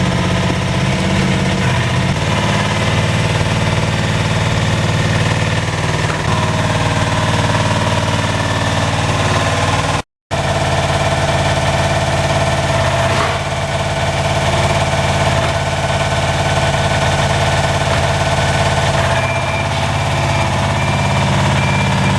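The 20 hp diesel engine of a homemade skid steer loader running steadily, with small shifts in pitch. The sound drops out completely for a moment about ten seconds in.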